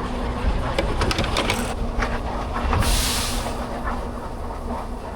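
Low, steady vehicle rumble with scattered clicks, and a short burst of hiss about three seconds in.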